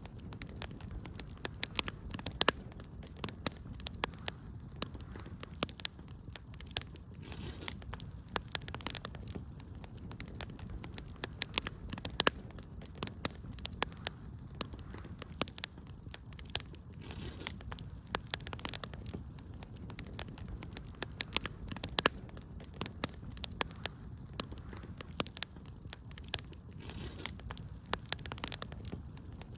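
Wood fire crackling in a fireplace: frequent irregular sharp pops and snaps, some louder than others, over a low steady rumble of the flames.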